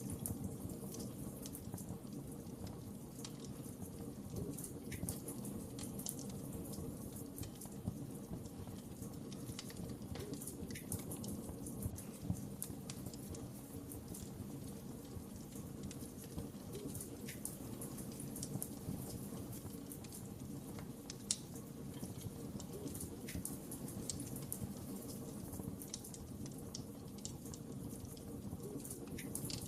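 Wood fire crackling steadily, with scattered small snaps and an occasional louder pop over a low rush of flames.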